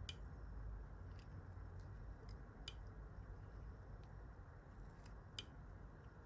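Fly-tying tools at the vise while a hackle is wound: a handful of faint, scattered small clicks, the loudest about five seconds in, over a low steady hum.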